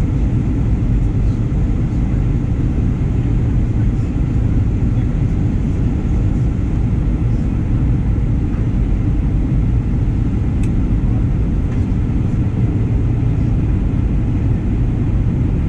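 Steady cabin noise aboard a Boeing 737-900ER airliner: an even, low rumble of engines and airflow, with a faint click about two-thirds through.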